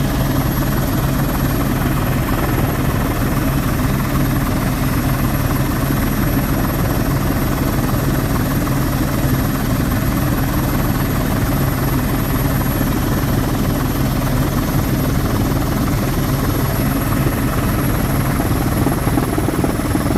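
Helicopter in flight, heard from inside the cabin: a steady, unbroken drone of turbine and rotor noise.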